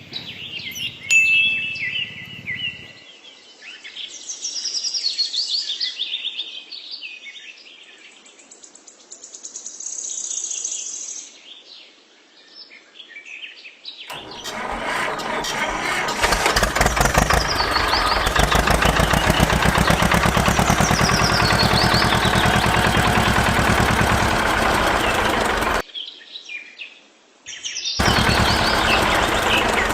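Small birds chirping and calling. About halfway through, a loud, steady machine noise cuts in and runs for roughly ten seconds, with the birds still heard over it; it stops suddenly and returns briefly near the end.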